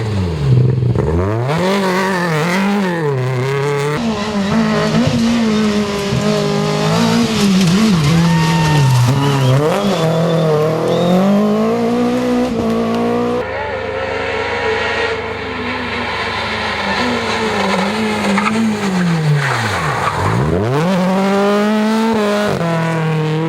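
Rally car engines revving hard and dropping through gear changes as the cars drive a special stage, with some tyre squeal. The sound cuts abruptly between cars twice, about four seconds in and past the middle.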